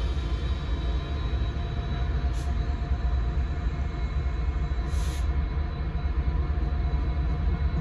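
Train passing with a steady low rumble of rolling cars and faint steady ringing tones from the wheels and rails. A brief hiss comes about five seconds in.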